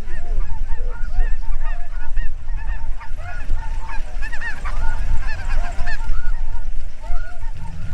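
A large flock of snow geese calling: many short, overlapping high honks in a dense chorus, over a steady low rumble.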